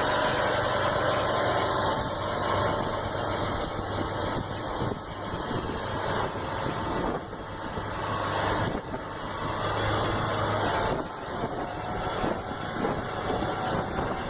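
Heavy logging truck's engine running steadily, its level rising and falling now and then.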